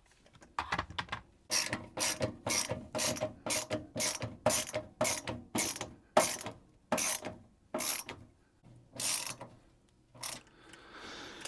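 Ratcheting tool clicking in a steady run, about two clicks a second, stopping about ten seconds in, as a panel on the air-conditioning unit is fastened back together.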